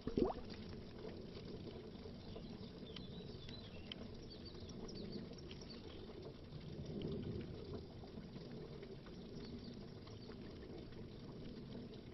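Underwater bubbling, faint and low, with small scattered pops and ticks, swelling slightly about seven seconds in.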